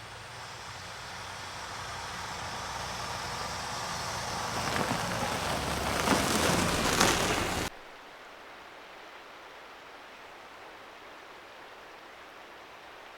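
Strong wind noise swelling over several seconds into loud gusts with crackling hits, then cut off suddenly about eight seconds in, leaving a steady soft hiss.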